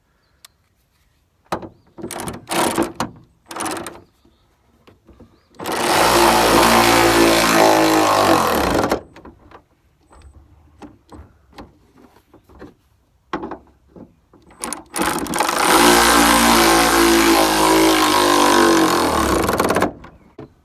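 Cordless power driver running twice, about three and four and a half seconds each, driving in hood strut mounting bolts, with a few short clicks and rattles of tool handling before the first run.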